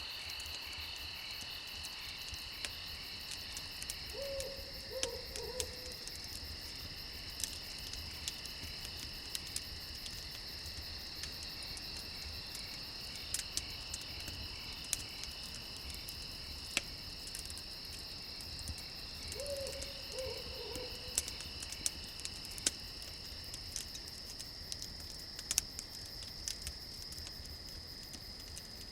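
An owl hooting twice, each a short run of three or four notes, about fifteen seconds apart, over a steady chorus of crickets and the scattered sharp pops of a crackling campfire.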